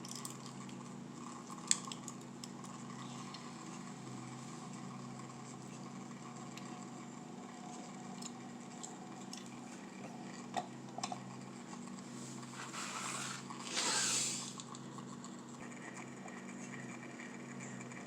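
Steady low electrical hum. A sharp click comes about two seconds in, a few lighter clicks come later, and a brief rustle is the loudest sound, near the three-quarter mark.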